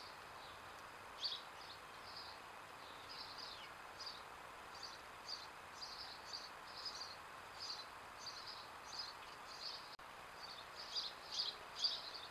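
Birds chirping: short high notes repeating irregularly, several a second, loudest near the end, over a faint steady hiss.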